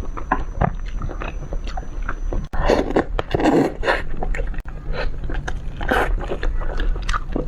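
Close-miked eating sounds of someone eating braised fish: a dense, irregular run of wet smacks and clicks of chewing, with a few longer, louder mouth sounds in the middle and near the end.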